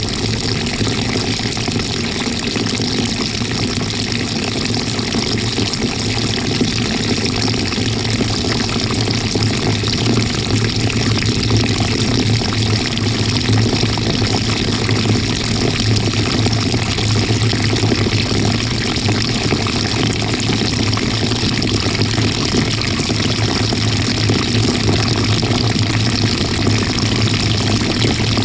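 Water rushing and churning steadily inside the tub of a GE GTW220ACKWW top-loading washing machine, heard from a camera on the agitator, under a constant low hum.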